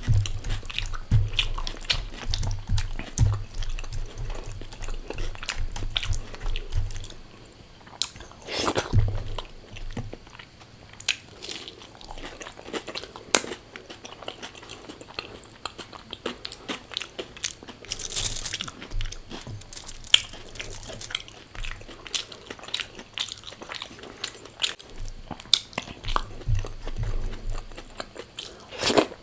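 Close-miked biting, crunching and chewing of crisp fried food, the crunches densest in the first several seconds and more scattered after.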